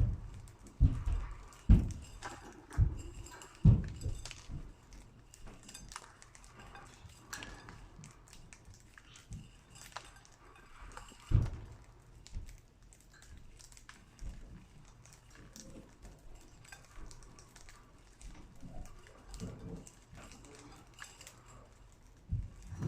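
Budgies pecking at millet in a dish: many small clicks and taps of beaks on seed and dish. A few louder low knocks come in the first four seconds and once about eleven seconds in.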